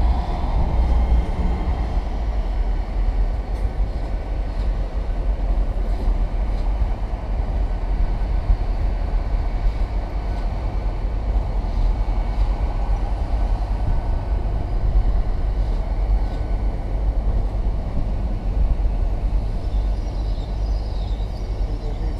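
Great Western Railway Class 800 Intercity Express Train moving through the station, giving a steady, low rumble.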